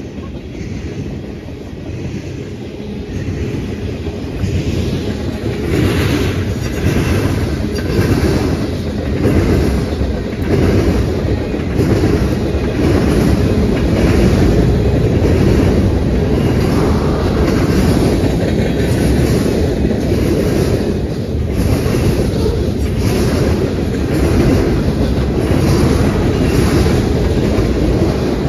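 A freight train's cars rolling past at close range, the wheels clicking over the rail joints on top of a steady rumble. It grows louder over the first several seconds as the cars come nearer.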